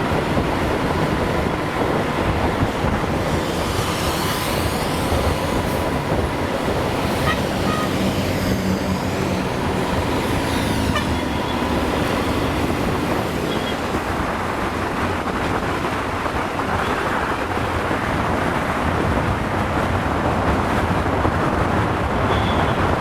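Steady road and wind noise from a moving motorcycle, with other vehicles passing, most noticeably in the first half.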